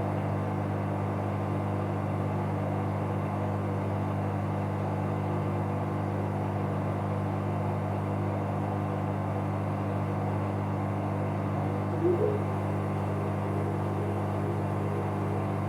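Bauknecht Super Eco 7615 washing machine running at a steady speed, a constant low hum with a rushing layer above it. A brief louder sound about twelve seconds in.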